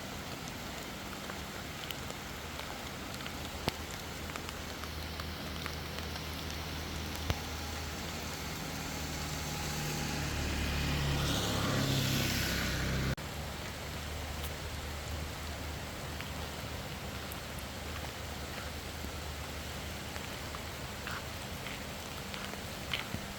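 Steady rain and road noise with a low motor hum underneath. A vehicle grows louder in the middle, and then the sound cuts off abruptly.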